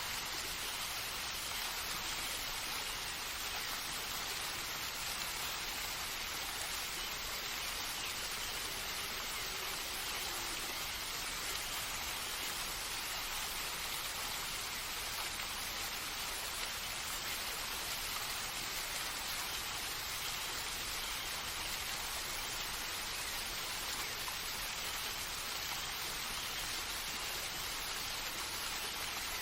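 Steady, even water noise like rain on foliage, unchanging throughout, with no birdsong or other distinct events.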